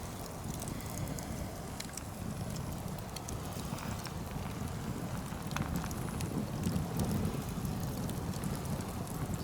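Nodya log fire burning with a steady low rushing sound and scattered faint crackles.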